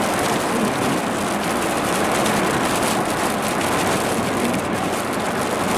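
A vehicle driving on a wet highway in the rain, a steady hiss of tyres on wet road and rain.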